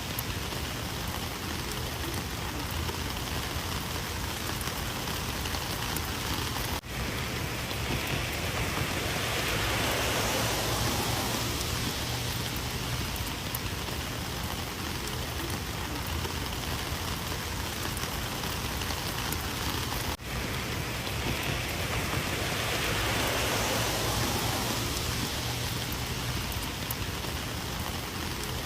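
Steady rain falling, an even hiss of many drops that swells louder twice and dips for an instant twice.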